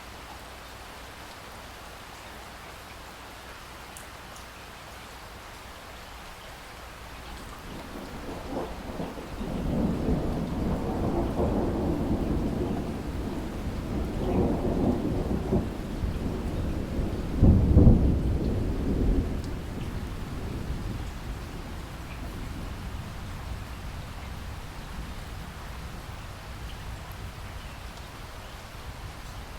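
Steady rain with a long roll of thunder that builds about eight seconds in, rumbles in waves, hits its loudest clap a little past the middle, and dies away a few seconds later, leaving the rain alone.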